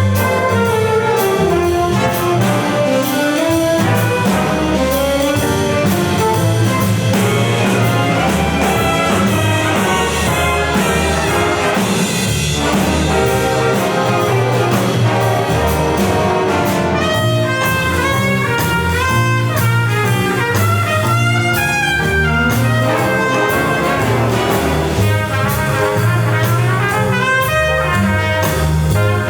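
Student band playing a brass-led piece: trumpets, trombones and saxophones over a bass line that moves in steps, with regular drum and cymbal hits.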